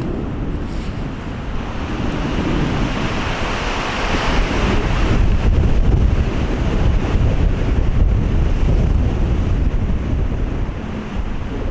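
Strong, gusty mountain wind rushing and buffeting the microphone with a heavy low rumble. It swells to its loudest in the middle and eases a little near the end.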